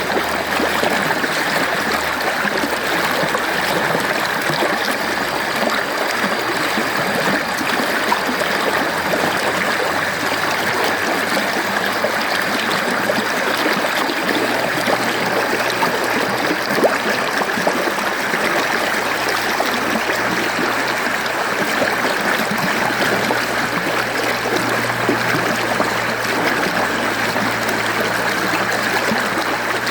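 Mountain stream flowing over rocks: a steady, even rush of running water with small gurgles.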